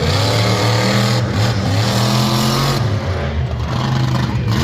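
Loud vehicle engine revving, its pitch rising and falling repeatedly.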